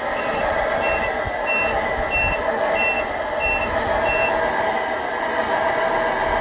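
Reverse warning beeper on a truck, sounding short high beeps about one and a half times a second that stop about two-thirds of the way in, over a steady engine drone.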